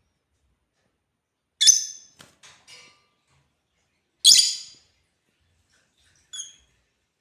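Lovebirds calling with sharp, high chirps. A loud call comes about a second and a half in, followed by a few fainter chirps. A second loud call comes a little past four seconds, and a short faint one near the end.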